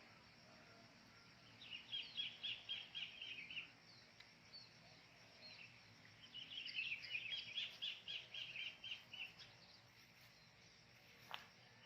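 A wild bird calling in two runs of rapid, evenly repeated high notes, about five a second, each run lasting two to three seconds, over faint outdoor background noise.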